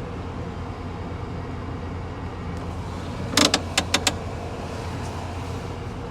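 1992 GMC pickup engine idling steadily, heard from inside the cab. About halfway through comes a quick run of about five sharp clicks.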